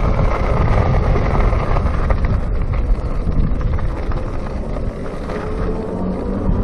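Wind buffeting the microphone of a chest-mounted camera on a moving electric bicycle, a steady low rumble mixed with tyre and road noise. Near the end, a low steady hum joins in.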